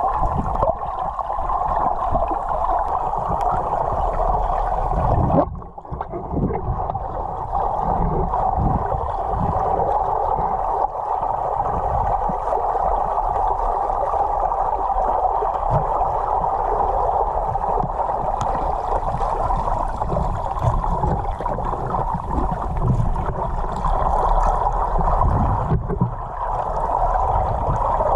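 Steady, muffled gurgling water noise, with brief breaks about five seconds in and near the end.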